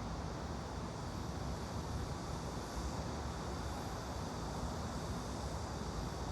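Steady background noise: an even hiss with a low rumble underneath, with no distinct events.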